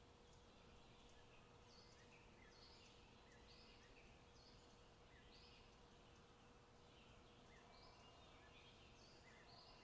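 Faint forest birdsong: many short, quick chirps repeating over a quiet background, with a faint steady tone running underneath.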